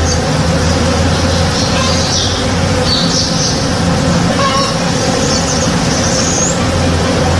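Many honey bees buzzing steadily as they forage on a blossoming tree, a dense unbroken drone over a low rumble. A few short bird chirps sound above it.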